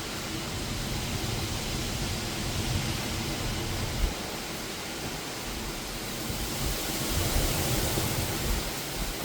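Heavy rain pouring steadily in a severe thunderstorm, with gusty low rumbling from wind, and a single brief knock about four seconds in.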